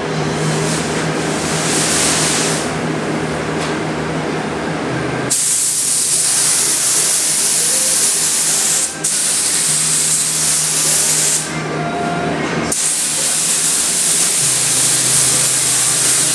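Compressed-air spray gun hissing as primer is sprayed onto car body panels, in long trigger pulls that stop briefly twice, at about nine and eleven and a half seconds. A steady low hum runs underneath.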